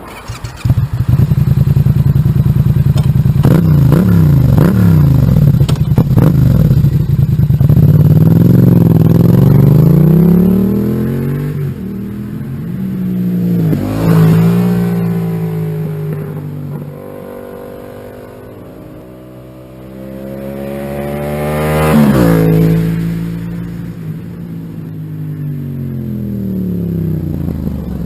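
Yamaha MT-07's parallel-twin engine through an aftermarket exhaust: it fires up about half a second in, is blipped in sharp revs, then accelerates with rising pitch, and twice swells to a loud peak with the pitch falling away after, like a bike passing by.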